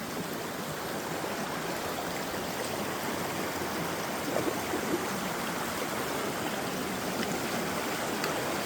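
Creek water running steadily, a continuous even rush.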